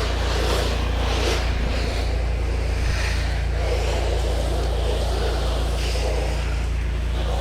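Pressure-washing rig's motor running steadily with a low hum, under an uneven rushing hiss.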